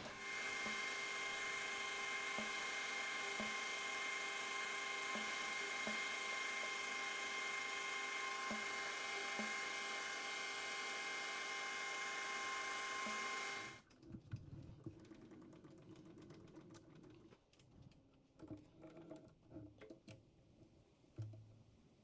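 Metal lathe running steadily with a cut in progress, a faint tick coming round about once a second; the sound stops abruptly about 14 seconds in. After that come quiet clicks and knocks of tools being handled.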